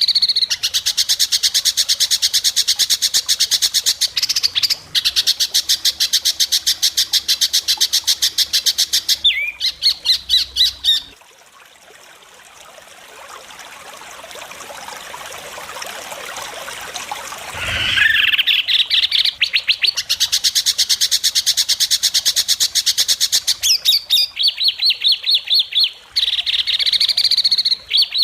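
White-rumped shama (murai batu) singing a rapid run of sharp, evenly repeated high notes, the fast 'besetan' of a contest bird. It breaks off for about seven seconds around eleven seconds in, with a soft hiss slowly rising in the gap, then starts the rapid notes again.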